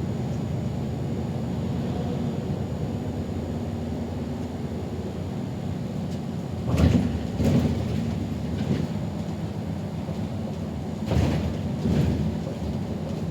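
City bus driving, a steady low engine and road rumble, with two pairs of short knocks or jolts about seven and eleven seconds in.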